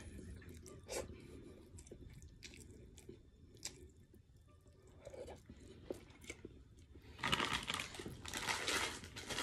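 A person chewing a mouthful of cooked fish close to the microphone, with small crunches and mouth clicks, then a louder stretch of crunching and rustling noise for the last two seconds.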